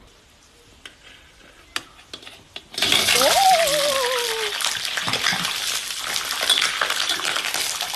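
A metal spatula clinks a few times in a wok. About three seconds in, blanched pig trotters are tipped into the hot caramelised sugar and set off a sudden, loud sizzle that keeps going. A short falling vocal cry sounds over the start of the sizzle.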